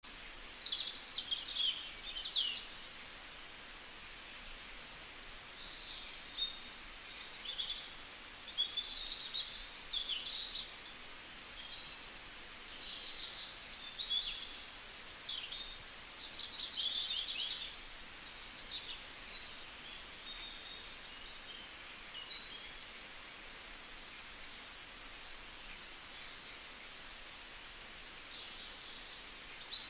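Small birds chirping and twittering, many short high calls and quick trills overlapping, over a faint steady hiss.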